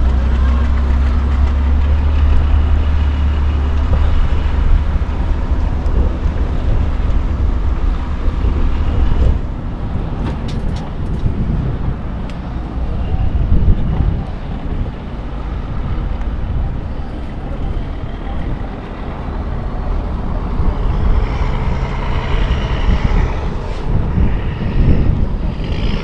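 A truck working its way over an off-road trial course, with a heavy low rumble that cuts off suddenly about nine seconds in, then a busier, rougher vehicle noise.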